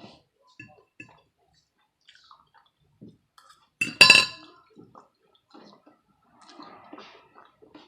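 Eating at a table: scattered small clicks, and about four seconds in one loud, ringing clink of tableware.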